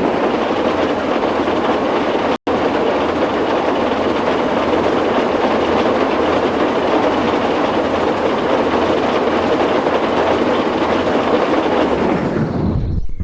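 A train running on rails, a steady loud rushing rumble that cuts out for an instant about two and a half seconds in.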